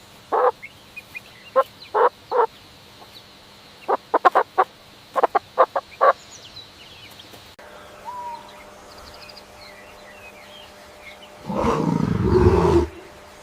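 Fowl calling in short notes, some of them in quick runs of about five. About eleven and a half seconds in comes a louder, noisier sound lasting roughly a second and a half.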